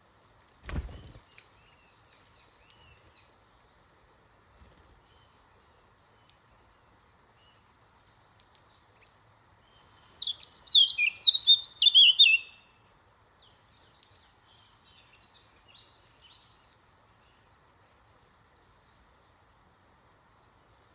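Woodland songbirds calling faintly here and there, with one loud song phrase of quick falling notes lasting about two and a half seconds, starting about ten seconds in. A short thump sounds just under a second in.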